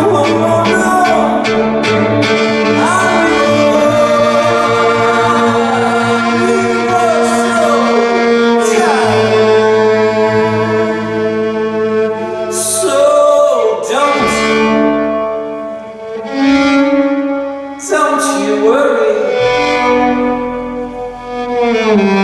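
Live band playing an instrumental break of the song, with a bowed violin playing sliding phrases over sustained chords.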